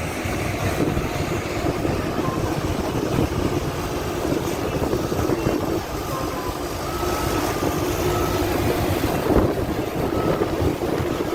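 Heavy vehicle engine running steadily, with a reversing alarm starting to beep intermittently about two-thirds of the way in.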